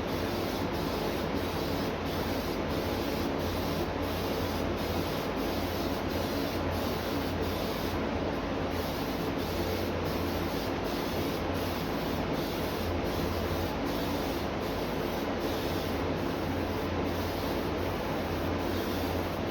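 Paint being sprayed onto an old car air cleaner: a steady hiss, unbroken throughout, over a low hum.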